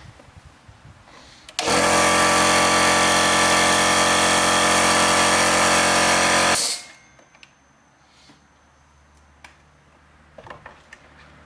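Compressor motor and pump running steadily for about five seconds, then switched off, briefly run with its oil drained to push out what is left. Faint handling clicks before and after.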